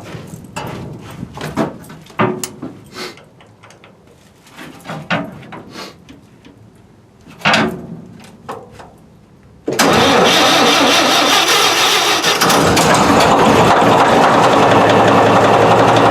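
Scattered knocks and clicks, then the Murphy diesel engine of a Northwest crane is cranked by its starter, which comes in suddenly about ten seconds in, catches after a couple of seconds and settles into steady running. The main clutch is thrown out, so the engine starts with nothing engaged.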